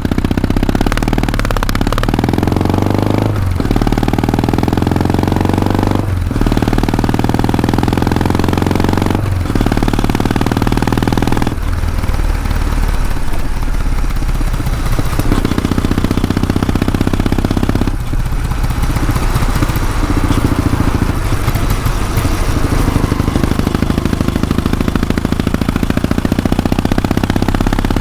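Kawasaki W650 parallel-twin engine and exhaust running under way, its note dropping out briefly several times, as with gear shifts, then running on steadily.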